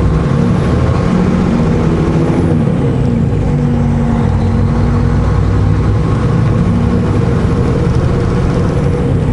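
Semi truck's diesel engine running under way, heard inside the cab, its pitch shifting down and up a few times.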